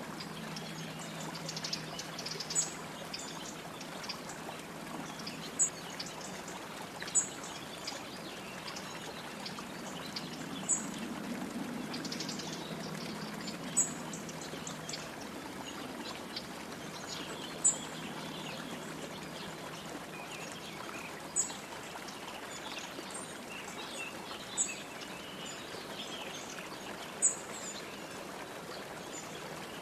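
Wild birds calling over a steady rush of running water: short, high chirps repeat every few seconds, with softer twittering in between, more of it in the second half.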